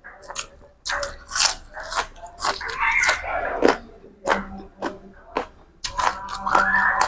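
Close-up crunching and chewing of food with crisp raw vegetables: repeated crackly bites. A couple of short pitched, voice-like sounds come about three seconds in and again near the end.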